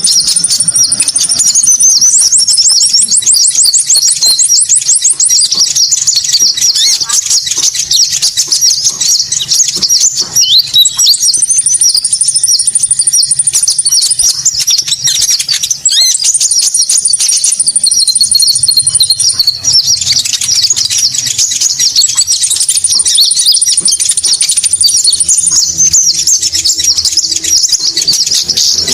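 Konin bird calls played as a lure: dense, continuous high chirping and twittering, with a thinner, higher trill running over it four times.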